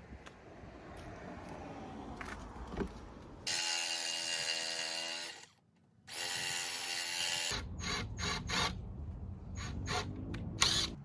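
Cordless drill running in two steady whining bursts of about two seconds each, followed by a run of sharp clicks and knocks.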